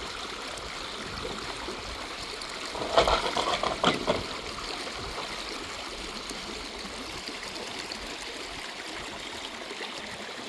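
Water running steadily, with a brief clatter about three seconds in and another about a second later.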